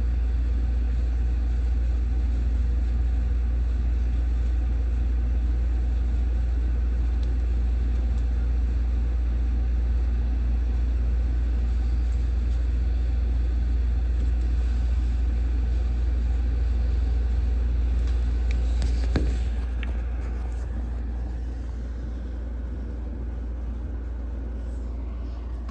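Steady low rumble, with a sharp click about nineteen seconds in, after which the rumble drops and is quieter.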